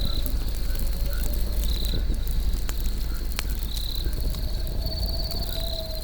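A campfire crackling, with sharp scattered pops over a steady low rumble. Crickets trill in repeated short bursts. A faint drawn-out hum slowly falls in pitch near the start and again near the end.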